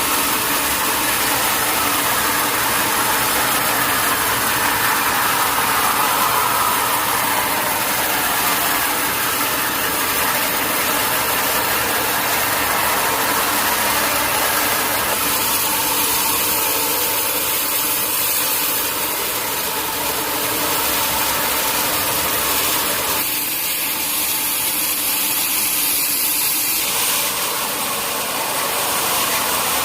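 Sawmill machinery running steadily while processing a mahogany log, its tone shifting a few times along the way.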